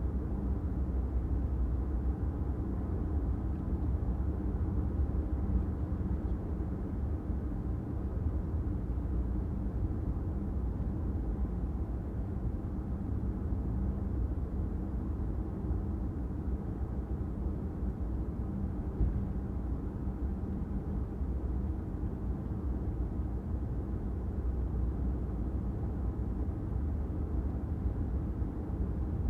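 Steady low rumble of a car on the move, its engine and tyre noise running evenly with no sudden sounds standing out.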